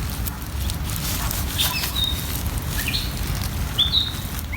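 Small birds chirping: a handful of short, quick notes, some sweeping up or down and one held briefly, over a steady low rumble and some light rustling.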